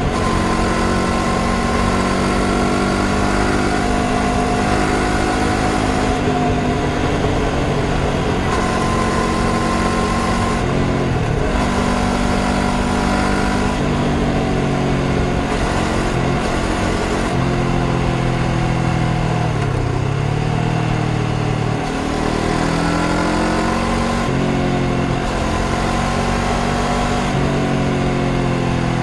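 Honda CBR500R's 471 cc parallel-twin engine running under way, its pitch dropping and climbing back several times as the throttle and gears change, over a steady rush of wind.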